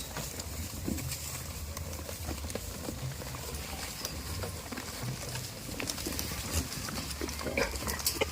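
Goats moving about close by: scattered small clicks and rustles over a low steady rumble, with no clear bleat.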